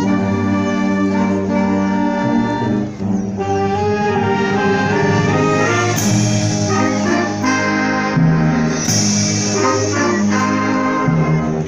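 Symphonic wind band playing, brass leading with sustained chords. Two percussion crashes ring out, about six and nine seconds in.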